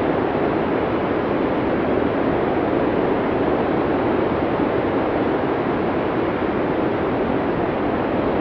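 Recorded blizzard wind from a classic sound-effects library: a steady, even rush of wind noise with no gusts or lulls standing out.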